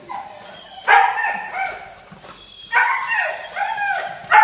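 Puppy barking in a string of short, high-pitched yaps with arching pitch, a brief pause in the middle before they start again.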